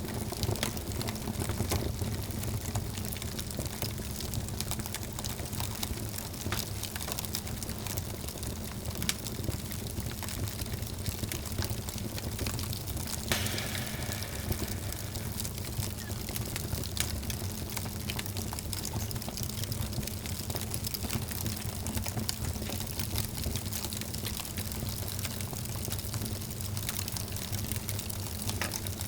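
Wood fire crackling in a fireplace: scattered sharp pops and snaps over a steady low rumble of the burning fire, with a brief hiss about halfway through.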